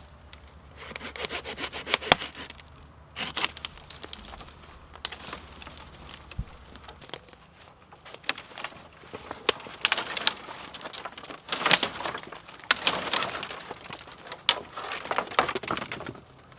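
Firewood being worked by hand: wood cracking and splintering in about six irregular bursts, each a second or two long, with short pauses between.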